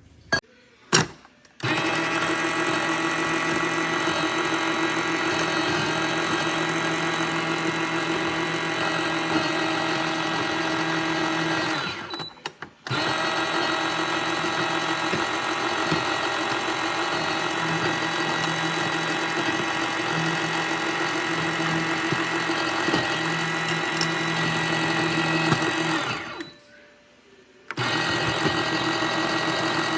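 Two clicks, then the MIROX espresso machine runs with a steady mechanical hum. The hum cuts out briefly about twelve seconds in and again for about two seconds near the end, then starts again.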